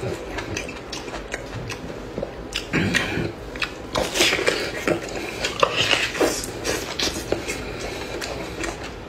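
Close-up wet chewing, biting and lip-smacking of a person eating cooked beef knee, with louder clusters of smacks and bites in the middle.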